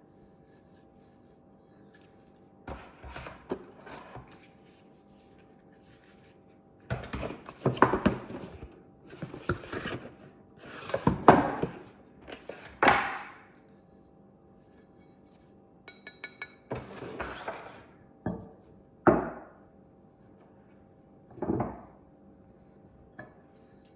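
Packaging and parts being handled during an unboxing: irregular bursts of rustling and scraping with sharp clicks, separated by short pauses, over a faint steady hum.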